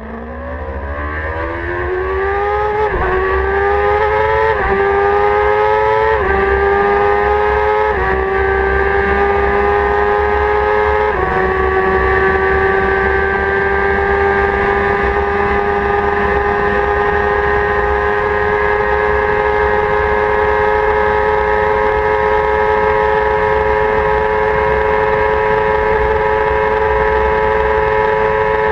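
2016 Kawasaki ZX-10R's inline-four engine, on stock exhaust, accelerating hard through the gears. The pitch climbs and drops back at each of five quick upshifts in the first eleven seconds, then holds steady at high revs at speed.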